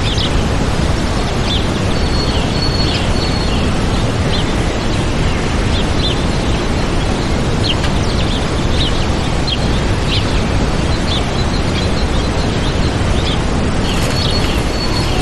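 Waterfall rushing steadily, with small birds chirping over it: short high chirps every second or so, and a couple of held whistled notes.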